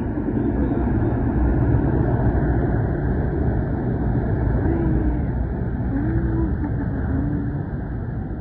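Mudflow (debris flow) surging down a mountain channel: a loud, steady low rumble of churning mud and rock.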